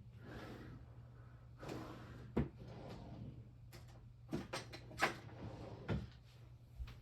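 Someone rummaging through stored craft supplies: several sharp knocks and clicks, the loudest about two and a half and five seconds in, with soft rustling between them.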